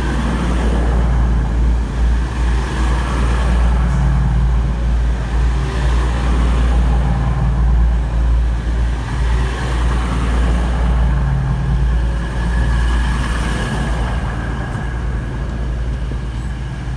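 Class 222 Meridian diesel-electric multiple unit pulling away from the platform, its diesel engines running under power with a steady low drone.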